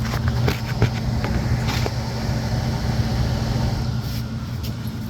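Indoor air handler's blower fan running with a steady low hum, with a few light clicks and taps of handling over it.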